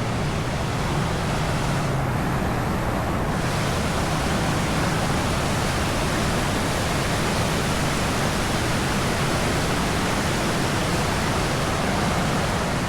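Steady rushing of water pouring over a waterfall swollen by days of heavy rain.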